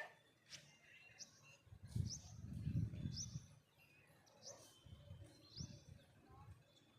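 Small birds chirping: a string of short, high, sharp chirps about once a second, over a low rumble that swells for a second or so near the middle.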